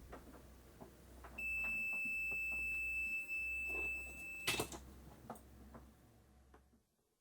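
A steady, high-pitched electronic beep held for about three seconds, cut off by a sharp click. Small scattered clicks and a low hum sit underneath.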